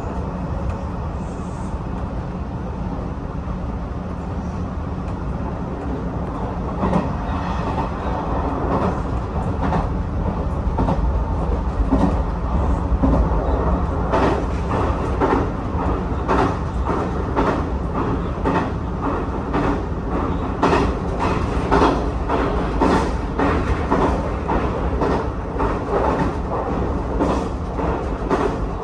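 Hanshin Railway electric train running, heard from inside the car: a steady low rumble with wheels clicking over rail joints. The clicks grow louder and come faster from about halfway, as the train picks up speed.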